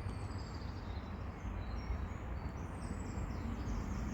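Low rumble of an approaching TransPennine Express Class 802 train, slowly building, with birds chirping high above it.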